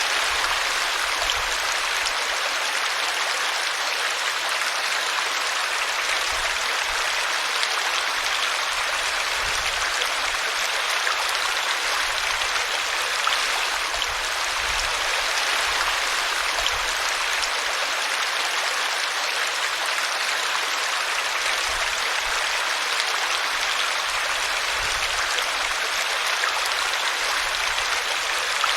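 Small brook flowing over a tree root: a steady, continuous babble of running water.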